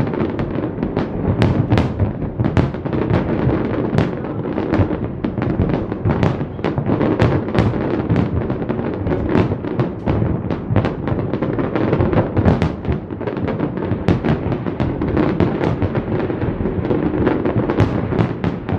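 Fireworks display: a dense, continuous barrage of bangs and booms, several a second, over an unbroken rumble.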